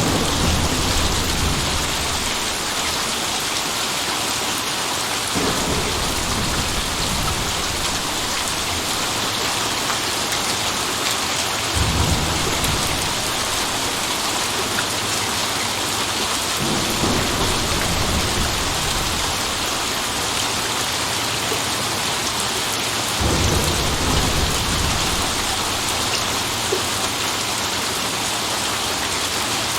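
Steady rain falling, with low rolls of thunder rumbling in about every five to six seconds.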